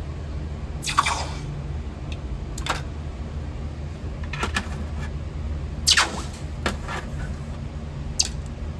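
A steady low hum, with about six short, sharp clicks and knocks scattered through it.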